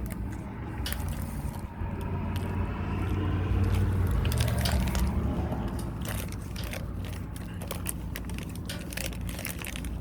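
A person chewing and biting into a burger close to the microphone, with many small crunchy clicks that come thickest in the second half, over a steady low hum.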